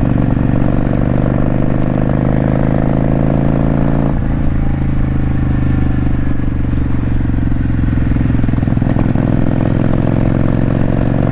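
Motorcycle engine running under way, its pitch climbing slowly as it accelerates. About four seconds in, a brief break and drop in pitch marks an upshift, then it builds again.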